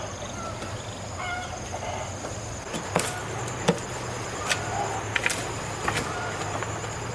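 Scattered sharp knocks of work, about five or six over three seconds, over a steady low hum; a few short calls like a chicken's come before them.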